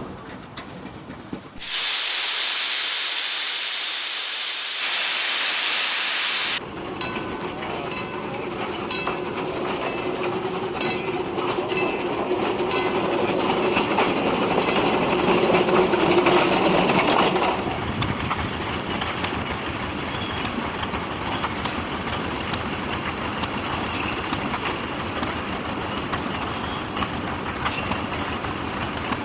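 Steam engine blowing off steam in a loud hiss for about five seconds, cutting off abruptly, then running with a steady clicking and a rising and falling mechanical din.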